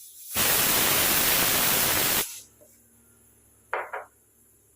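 A loud burst of even hissing noise, about two seconds long, that starts and cuts off abruptly; afterwards a brief faint double clatter.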